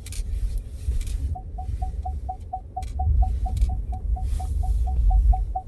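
Ford F-150 pickup's engine rumbling low and swelling louder in the second half as the truck tries to move while stuck in deep snow. From about a second in, a short dashboard chime repeats about four times a second, the seatbelt warning.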